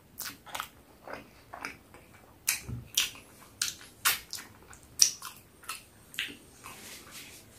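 Close-up chewing and lip smacking over a mouthful of peri peri chicken: a run of short, irregular wet mouth clicks.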